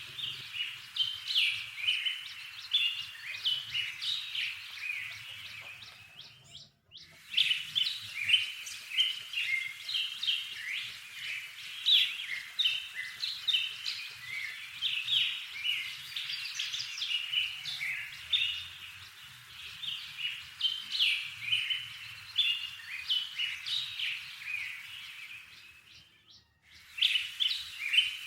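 Wild songbirds chirping and singing together in a dense run of short, high calls, broken twice by brief silences.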